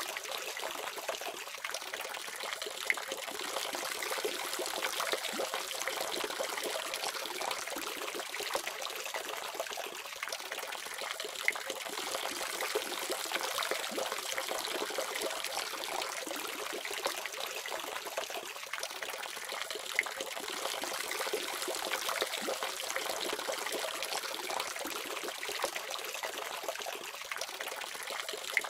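Water running steadily from a faucet, with small irregular splashes.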